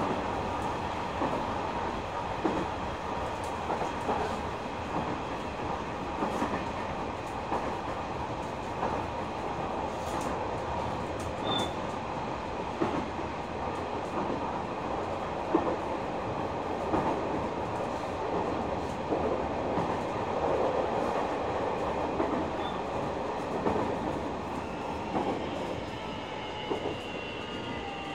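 Nishitetsu 9000 series electric train heard from inside the car, running steadily with rumble and intermittent clicking from the wheels over rail joints. In the last few seconds a whine from its Toshiba hybrid-SiC VVVF inverter and traction motors sets in and falls in pitch as the train starts to slow.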